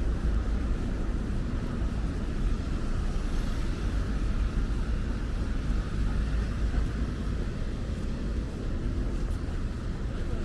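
Steady low rumble of road traffic on a city street, with vehicles running and passing.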